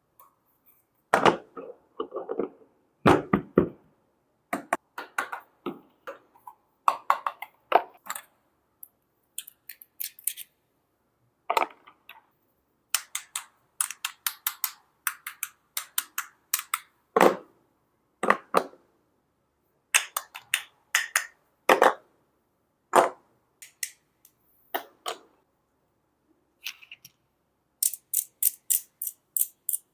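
Plastic toy pieces and packaging being handled during an unboxing: scattered clicks, knocks and short rustles, with a quick run of light ticks near the end.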